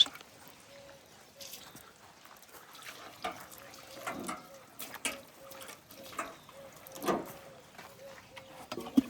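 Water splashing and dribbling in short irregular bursts, with a faint steady hum underneath.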